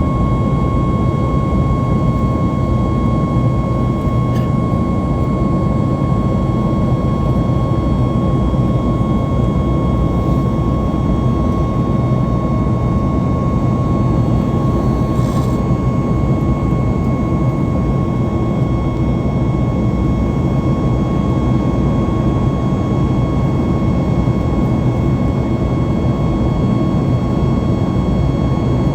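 Cabin noise of a Boeing 737 MAX 8 climbing after takeoff: the steady rushing of airflow and its CFM LEAP-1B turbofans, with a steady high whine over it.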